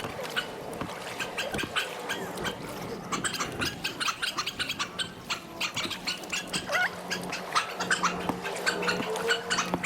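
Birds chirping in a dense, rapid chatter of short calls, over a steady low hum.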